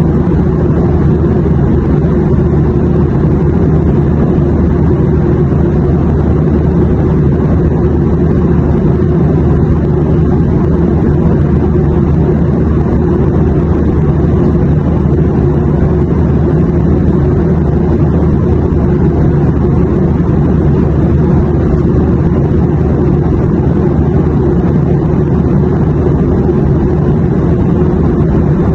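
Airliner cabin noise in flight: a steady low drone with a few constant hums beneath it and no changes or breaks.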